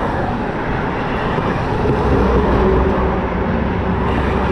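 Motorcycle on the move: steady engine, road and wind noise with a low rumble, slightly louder about two seconds in.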